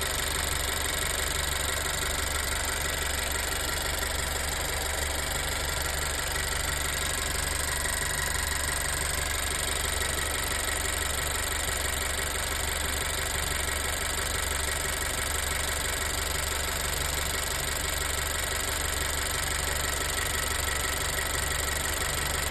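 Honda CR-V's L15 1.5-litre turbocharged four-cylinder engine idling steadily while warm, freshly treated with Motorkote oil additive. The owner has been chasing a ticking that he takes to be the valves.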